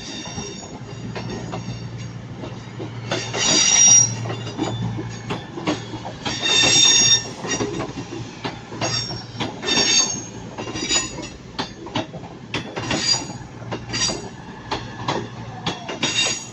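Ex-Avanti Class 221 Super Voyager diesel multiple unit moving slowly through the station, its wheels squealing repeatedly on the curves. Sharp clicks from the wheels over rail joints, with a steady low engine hum underneath.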